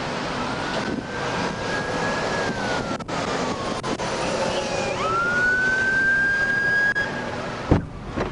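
Emergency vehicle siren wailing, its pitch sliding slowly down and then sweeping back up about five seconds in, over steady road and wind noise. A sharp knock near the end.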